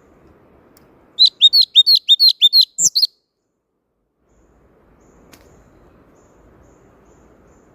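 A thanh tước songbird sings a quick burst of about eight sharp, high, down-slurred notes over roughly two seconds, starting about a second in. It ends with a couple of higher notes. After that only a faint background hiss remains.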